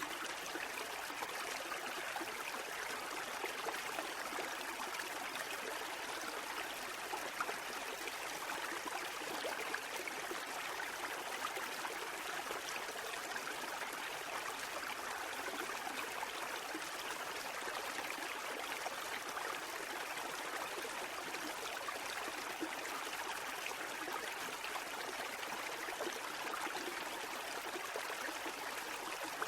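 Steady rushing and trickling of water, an even wash with no rise and fall of breaking waves.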